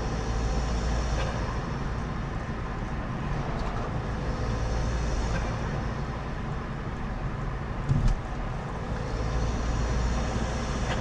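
Opel Astra G 2.2 DTI four-cylinder turbodiesel running, its turbo whistle swelling three times: at the start, about four seconds in and near the end. A short, loud burst comes about eight seconds in.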